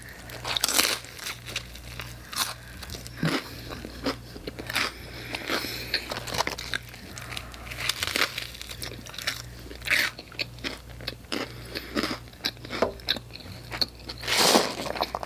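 A person biting and chewing crunchy food close to the microphone, with irregular crunches throughout and a louder bite near the end, over a faint steady low hum.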